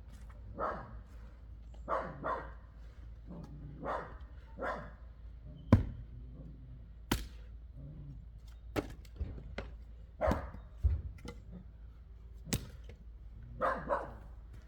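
A dog barking repeatedly, often two barks close together. Between the barks come several sharp cracks, the loudest about six seconds in, typical of an axe striking wood.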